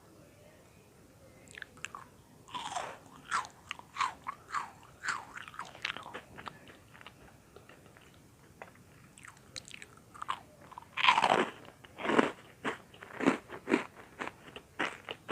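Close-miked crunching and chewing of crisp butter-toasted bread-cube 'popcorn': rapid sharp crunches in two bouts with a short lull between them, the loudest crunch about two-thirds of the way through.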